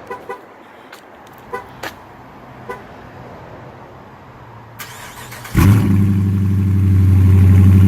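2019 Dodge Challenger cold start: a few short beeps, then the starter cranks briefly about five seconds in. The engine catches with a sudden loud burst and settles into a loud, steady cold-start fast idle.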